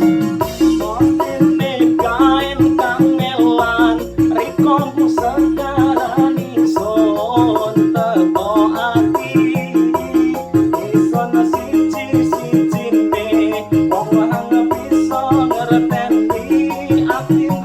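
Dangdut koplo arrangement played on an arranger keyboard: a bending melody line over a steady beat with shaker-like percussion.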